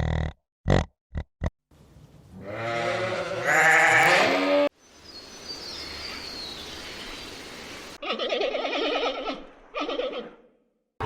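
A series of different animal calls, one after another. A few short calls come first, then a long wavering pitched call about two seconds in, and two buzzing calls near the end.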